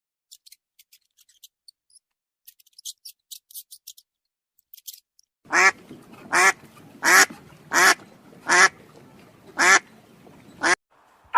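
A duck quacking seven times in an even series, about one quack every three-quarters of a second, starting about halfway through. Before the quacks there are only faint scattered clicks.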